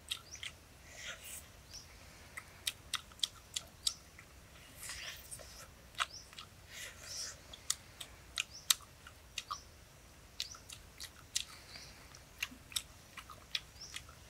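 A man biting into and chewing cooked pig intestines, close to the microphone: a run of irregular sharp smacks and clicks of mouth noise.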